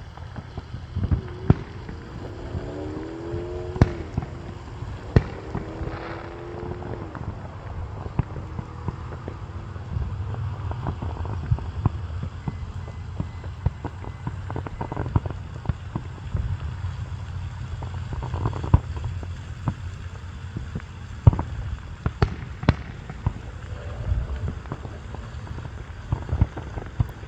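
Fireworks going off in an irregular string of sharp bangs throughout, over a steady low rumble.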